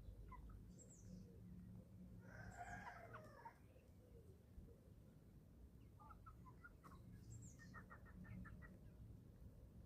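Faint calls of 11-week-old chickens. About two seconds in comes one pitched call lasting about a second, and in the second half a quick run of short clucks.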